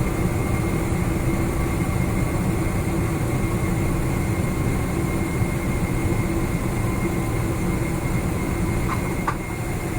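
Steady low rumble inside the cabin of a Boeing 777-300ER rolling on the ground just after landing, with a faint steady whine above it.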